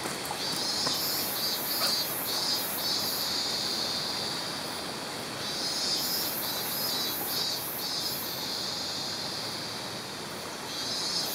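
Steady rush of a mountain stream, with insects trilling in high pulses that come and go over it.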